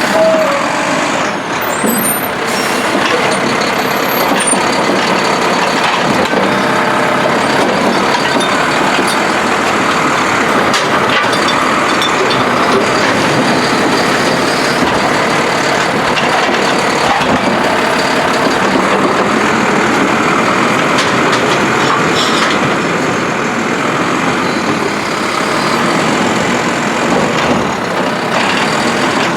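Mack LR garbage truck with a Heil Durapack Rapid Rail side-loader body running steadily at close range.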